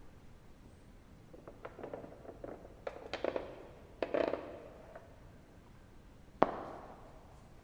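Wood fire crackling, with scattered snaps and pops; the loudest single pop comes about six and a half seconds in.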